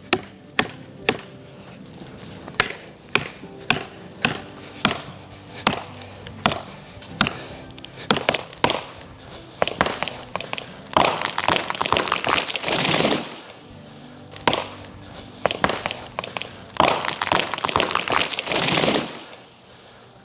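Repeated sharp blows on wood, about two a second, with two longer noisy rushes in the second half, over soft background music.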